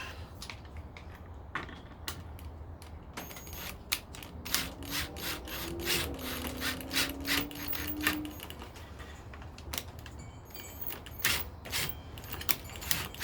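Rapid, irregular clicking and light knocking of small parts or tools being handled on a workbench, ratchet-like in places, with a low drawn-out creak in the middle.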